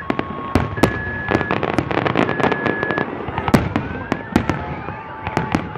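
Fireworks display: a dense run of sharp bangs and cracks, several a second, over a continuous crackle, with high whistling tones held steady and sliding up and down among them.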